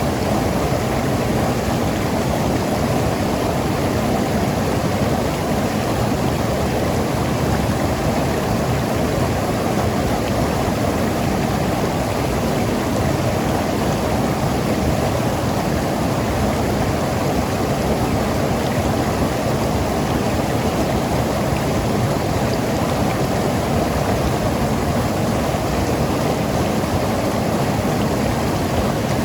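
Mountain river flowing and tumbling over rocks, a steady rushing and gurgling of water.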